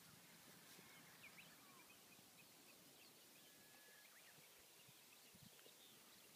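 Near silence with a faint hiss, broken by scattered faint, high chirps and short whistles of distant small birds.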